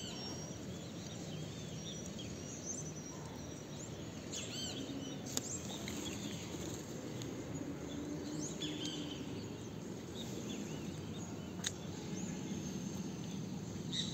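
Birds chirping: scattered short, arched calls over a steady low background noise, with two sharp clicks, about five and about twelve seconds in.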